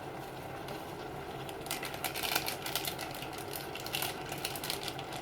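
Vegetables sizzling and crackling in a hot pan, the crackle picking up about two seconds in, over a steady mechanical hum.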